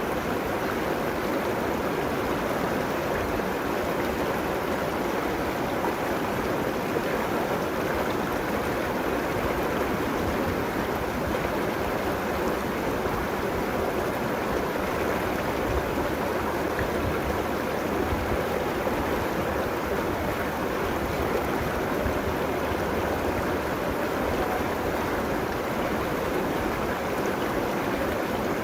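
River water flowing and rushing along the bank, a steady, unbroken rush.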